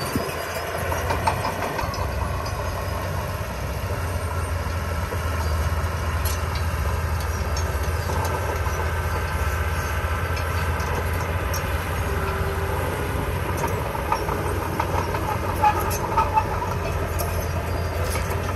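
Diesel engine of heavy earthmoving machinery running steadily, with scattered metallic clanks and clicks.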